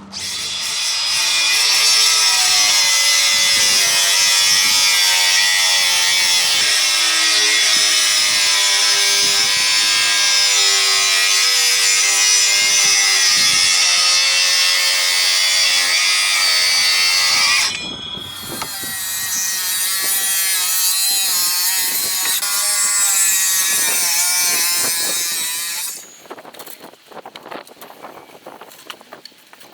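Power saw cutting spruce timber, its motor pitch wavering under load: one long cut, a short dip, then a second shorter cut that stops suddenly a few seconds before the end, followed by scattered light knocks.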